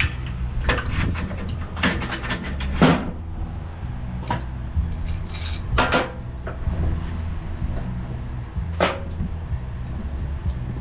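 Scattered knocks and clanks, a handful of separate hits a second or more apart, over a steady low hum.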